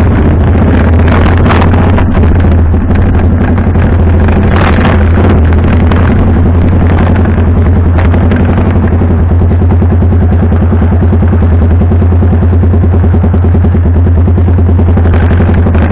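Motorcycle engine running close to the microphone with a steady low drone, the bike rolling slowly at first. In the second half it idles with an even, rhythmic putter as the bike sits stopped.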